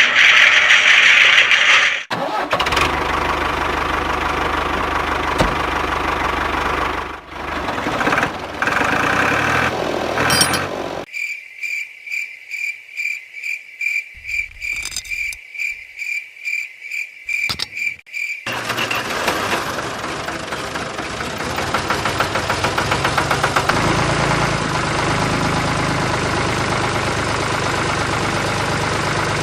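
A small motor running steadily in several edited stretches. A middle stretch is a rapid, even series of high-pitched pulses.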